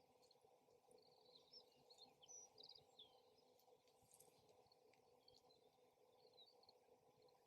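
Faint chirps and short trills of small songbirds, busiest in the first half, over a quiet, steady low hum.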